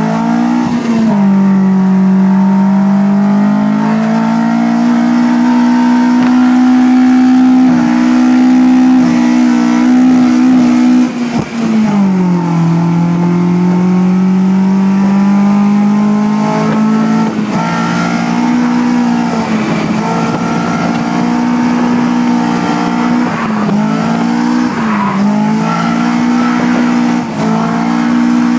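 Toyota 3S-GE Beams 2.0-litre four-cylinder engine in an AE86 Corolla drift car, heard from inside the cabin, held at high revs while drifting. The revs drop sharply about eleven seconds in, then climb again, with several quick throttle lifts and stabs near the end.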